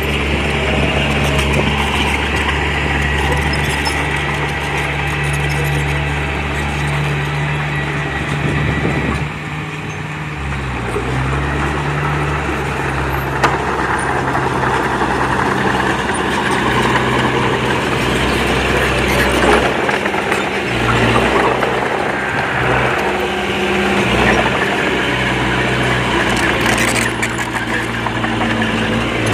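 Diesel engine of heavy earthmoving machinery running continuously, its pitch dropping about nine seconds in and shifting several more times after, over a dense mechanical din.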